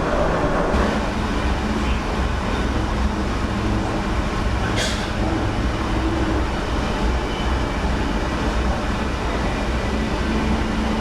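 Sydney Trains red set (S set) electric train running, heard from inside the driver's cab: a steady rumble of wheels and motors on the track. About halfway through there is one short, sharp high-pitched sound.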